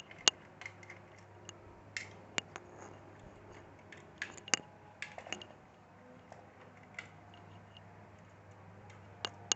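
Irregular small clicks and taps of laptop parts being handled while the cooling fan is worked on. The loudest come just after the start and about four and a half seconds in, over a faint steady low hum.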